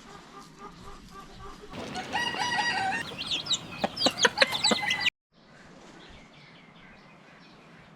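Chickens calling: a held crow-like call about two seconds in, then a run of short, quick clucks and squawks. The sound cuts off suddenly about five seconds in, leaving only faint background with small distant calls.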